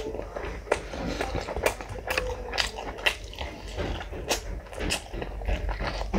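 Mukbang eating sounds: a man chewing meat curry eaten by hand, with many irregular wet mouth smacks and clicks.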